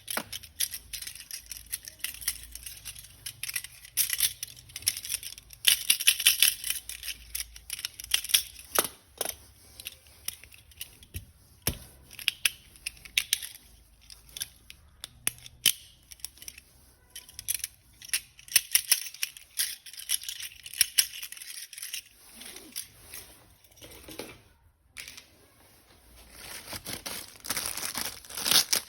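Plastic packaging being crinkled and torn open while a toy weapon set is unpacked, with irregular crackling and many short clicks of handled plastic throughout.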